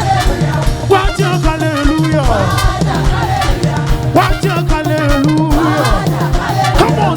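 Live band playing upbeat African gospel praise music, driven by bass and drums, with voices singing and sliding between notes over it.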